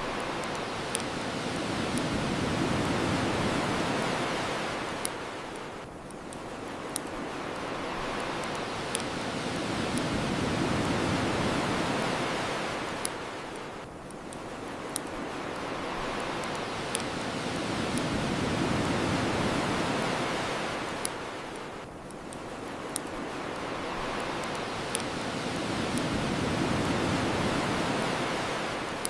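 Ocean waves washing onto a shore, each swelling and drawing back over about eight seconds, with the sharp pops of a crackling bonfire scattered over them.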